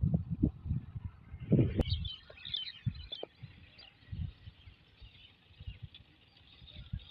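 Small birds chirping, a quick flurry of short calls about two seconds in and a few thinner ones after, over irregular low thumps and rumbles on the microphone that are loudest in the first two seconds.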